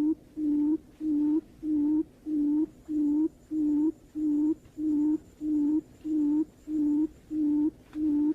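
Barred buttonquail call: a long, even series of short, low hooting notes, about two a second, repeated without a break.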